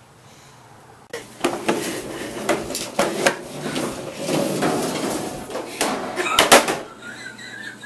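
A quiet stretch, then from about a second in a fast run of knocks and clattering, like hard objects being handled and banged together.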